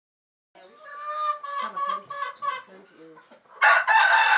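Chickens clucking in a string of short calls, then a rooster begins a loud crow about three and a half seconds in.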